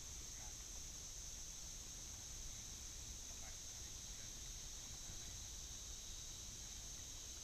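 Steady high-pitched drone of insects, with a low rumble underneath and a few faint short chirps.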